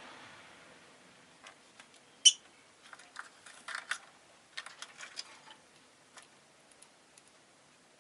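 Rosy-faced lovebird giving one sharp, high chirp a little over two seconds in, followed by a few seconds of soft clicking and scratching.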